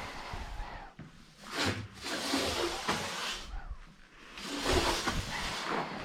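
Broom bristles sweeping across a hard floor: two long sweeping strokes of scratchy hiss with a few small knocks.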